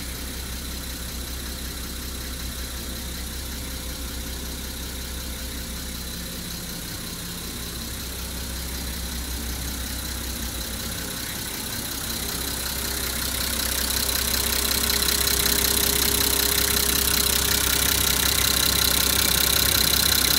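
Nissan Civilian bus's TD42 inline-six diesel idling steadily, with a steady high whine above it. About two-thirds of the way through, a hiss grows louder and stays.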